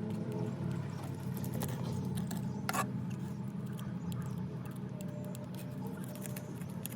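A motor running steadily with a low hum, with scattered light clicks and taps, one sharper click near the middle.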